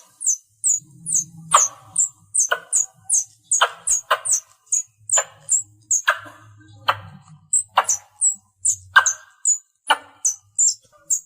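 Squirrel calls: a rapid series of high, downward-sliding chirps, about three a second, with a harsher, sharper chip about once a second, the calling sound used to draw other squirrels in.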